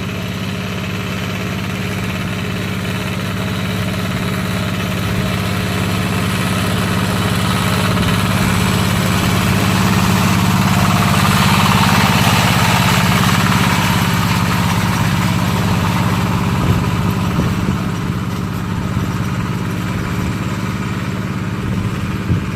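Tractor engine running steadily, growing louder toward the middle and then easing off a little.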